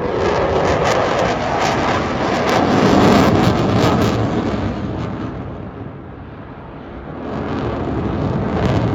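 Eurofighter Typhoon's twin Eurojet EJ200 turbofans during a display pass: a loud jet roar that peaks about three seconds in, fades away, then builds again near the end as the jet comes back round.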